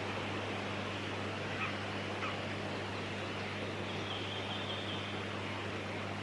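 Two short faint bird calls about two seconds in, then a thin, high, steady note lasting about a second, over a constant hiss and a low hum.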